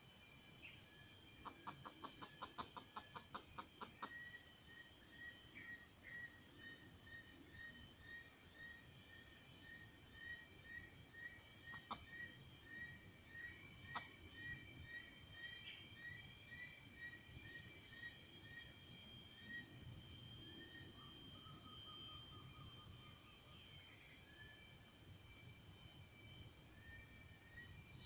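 A steady, high insect chorus of cicadas or crickets, with a bird giving a long series of short repeated call notes, about two a second. Near the start there is a quick run of about ten clicks.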